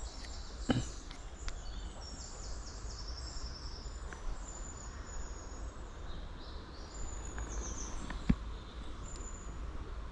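Small birds chirping in short, high-pitched calls over a steady low background rumble. A sharp click comes about a second in, and a louder one about eight seconds in.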